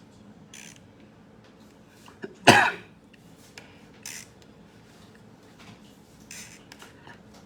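A single cough about two and a half seconds in, with a few faint strokes of a marker on paper around it.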